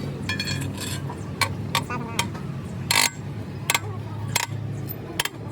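Metal clanking and knocking, about eight irregular strikes with the loudest about three seconds in and a brief metallic ring near the start, over a steady low engine hum.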